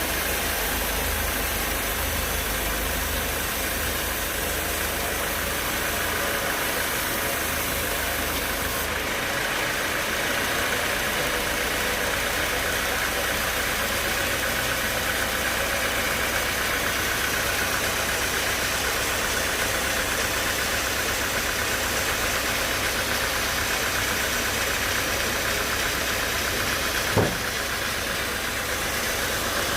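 Sawmill machinery running steadily, a continuous mechanical hum and whir whose low drone changes pitch about nine seconds in, with a single sharp knock near the end.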